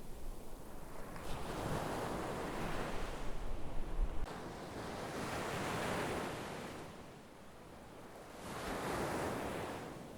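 Sea waves washing onto the shore in three slow surges, each swelling and fading over about two seconds. A low wind rumble on the microphone stops suddenly about four seconds in.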